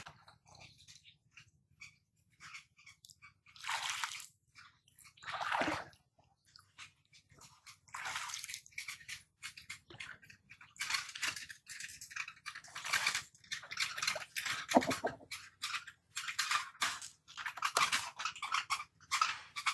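Water hyacinth being pulled apart by hand in water: irregular crunching and rustling with splashing and dripping, sparse at first and busier from about halfway through.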